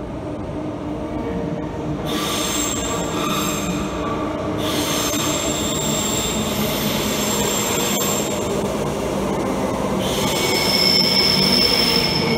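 A Transperth A-series electric multiple-unit train pulls into the platform. Its high, shifting squeal sits over the running noise and a low hum, growing louder as it draws in, and the squeal is sharpest near the end.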